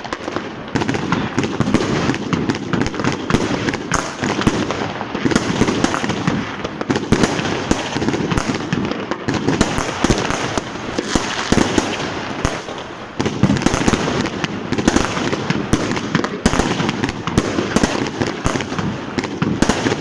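Dense, continuous New Year's Eve fireworks and firecrackers: many bangs and crackles coming one on top of another, with a rumble underneath and no break.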